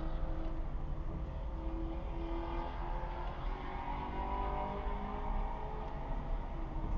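Car engine running and accelerating, its pitch rising about two seconds in and again around four seconds in.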